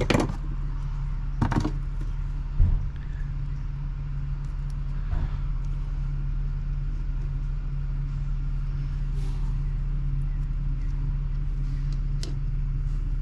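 A steady low mechanical hum, like a motor running, with a few short knocks and clicks from small parts being handled: one at the start, two in the first three seconds and one near the end.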